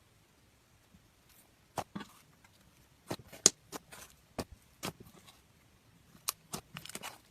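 Slime being squeezed and pressed by hand, giving irregular sharp pops and clicks with short quiet gaps between them.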